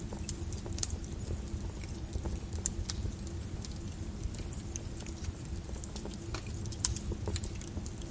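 Wood fire in a fireplace crackling: irregular sharp pops and snaps, a couple standing out louder near the middle and about seven seconds in, over a steady low rumble of the burning.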